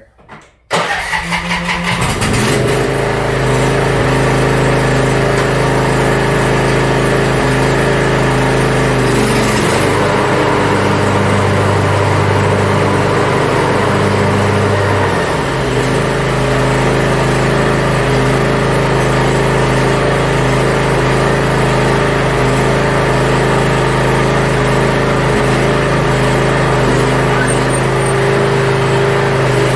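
Riding mower engine starting up about a second in, then running steadily. Between about 10 and 15 seconds its low note shifts, then it settles again.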